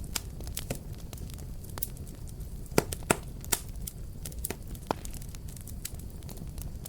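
Wood fire burning with a steady low rumble and irregular sharp crackles and pops, several louder snaps clustered in the middle.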